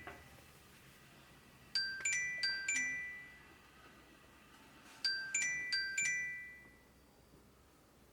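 A short tune of bright, ringing chime notes, like a glockenspiel or electronic chime, played twice about three seconds apart, each phrase of about six quick notes fading away.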